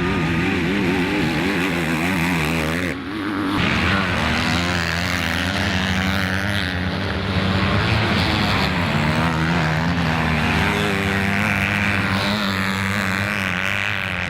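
Motocross bike engines racing, their pitch rising and falling as the riders open and close the throttle, with the sound changing abruptly about three seconds in.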